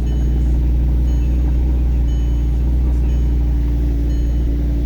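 Audi R8's 5.2-litre V10 running steadily at idle seconds after a fully cold start, with the secondary air injection pump still running as it does during cold-start warm-up.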